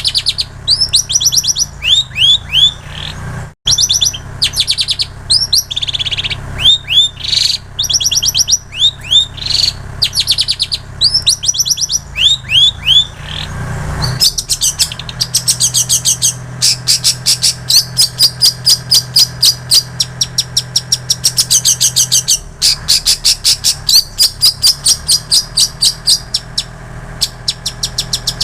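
A long-tailed shrike singing a mimicked song learned from prinias and canaries. For about the first half it gives short repeated chirping phrases; about halfway through it switches to a fast, even run of high notes, several a second, with short breaks. A steady low hum runs underneath, and the sound drops out briefly a few seconds in.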